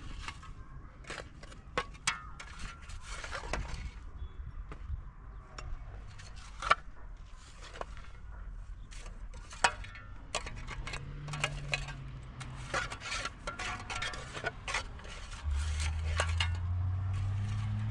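Irregular clinks, knocks and scrapes of hard objects being handled, with a low steady hum coming in near the end.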